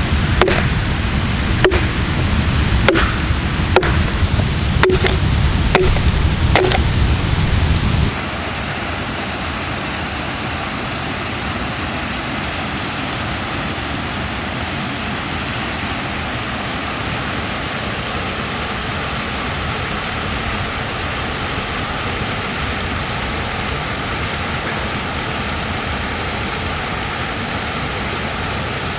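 Ushkuy axe chopping into a log: about seven sharp strikes, roughly a second apart, over a low rumble. About eight seconds in the sound cuts abruptly to a steady, even rushing noise with no strikes.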